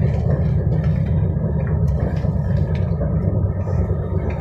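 Elizabeth line Class 345 train running, heard from inside the carriage: a steady low rumble from the wheels and running gear, with a few faint clicks over it.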